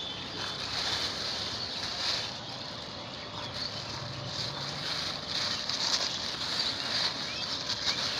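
Steady outdoor background noise with a constant high hiss.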